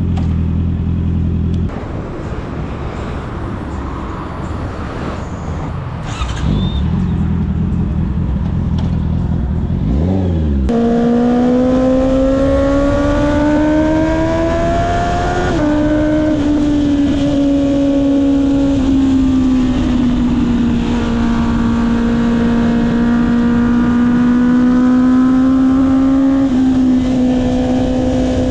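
Honda CB650R's inline-four engine through an Akrapovic exhaust, heard from the rider's camera. A low steady engine note gives way to a brief rev about ten seconds in, then the engine pulls with a climbing pitch, steps at a gear change about fifteen seconds in, and holds a steady high note with small rises and falls.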